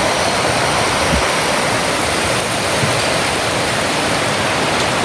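Heavy thunderstorm rain driven by strong wind gusts, a loud, steady downpour with no letup.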